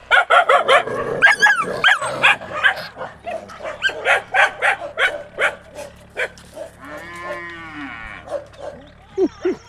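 Animals calling: a rapid run of barks for about six seconds, then one long drawn-out call that rises and falls in pitch about seven seconds in, and short yelps near the end.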